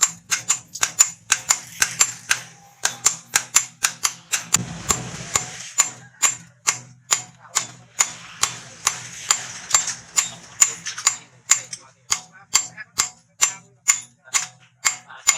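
Blacksmith's hand hammer striking hot rebar on an anvil: a steady run of sharp, ringing blows, about three a second, over a faint low hum, with a short low rumble about four and a half seconds in.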